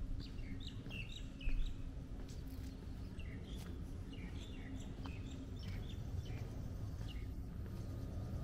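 Small birds chirping and twittering, many short calls one after another, over a steady low background rumble. A brief low thump comes about a second and a half in.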